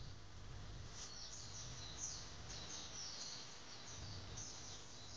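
Quiet outdoor ambience: small birds chirping now and then with short high calls over a low steady rumble.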